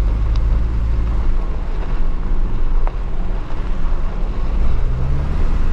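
Car on the move: steady engine and road rumble, with the engine note rising near the end.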